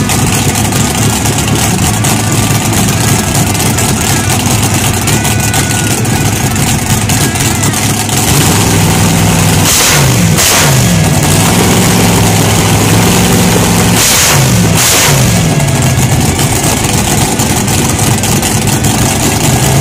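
Methanol-injected 502 cubic-inch big-block Chevrolet in a front-engine dragster, idling loudly. It gets louder about eight seconds in and is revved in short throttle blips about ten seconds in and again around fourteen to fifteen seconds in.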